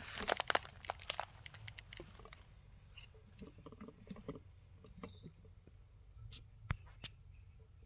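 Steady high-pitched drone of insects, crickets or cicadas, with clicks and rustling from the camera being handled and set down in the first second and a single click near the end.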